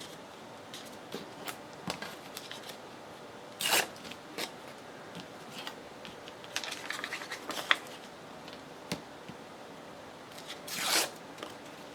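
Paper scraps being handled and fitted on a craft journal: scattered small rustles and crackles, with two longer rasping paper strokes, one about a third of the way in and one near the end.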